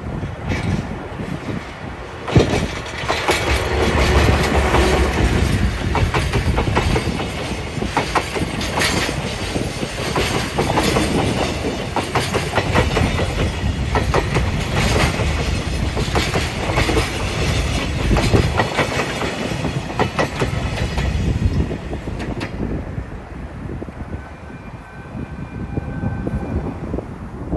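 Freight container wagons rolling past close by, their wheels clattering over rail joints in a dense, irregular clickety-clack over a deep rumble. The clatter eases about two thirds of the way through, with a faint high whine near the end.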